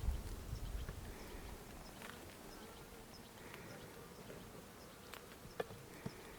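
Honey bees buzzing around an open hive, a faint steady hum, with a few light clicks about two seconds in and near the end.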